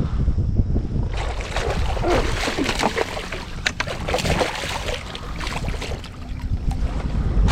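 A hooked northern pike splashing at the surface beside a kayak as it is landed, with irregular sharp splashes and knocks starting about a second in. Wind rumbles on the microphone underneath.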